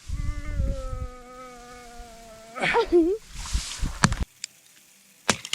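A fly buzzing close to the microphone: a steady hum for about two and a half seconds. It is followed by a short voice and a few sharp clicks.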